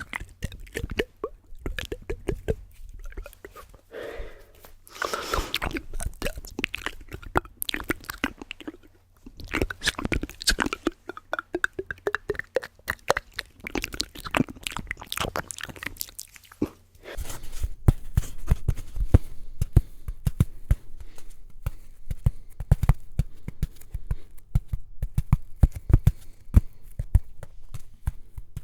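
Close-miked ASMR mouth sounds: wet clicks, smacks and crunch-like noises in quick succession. About halfway through they give way to rapid, heavier tapping that carries on to the end.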